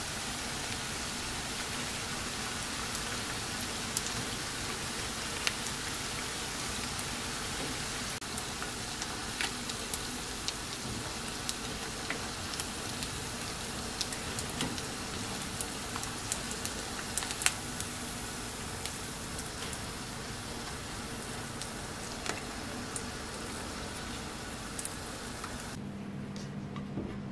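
Battered chicken gizzards deep-frying in hot oil in a pan: a steady sizzle with frequent sharp pops and crackles. The sizzle cuts off suddenly about a second before the end, leaving only a low steady hum.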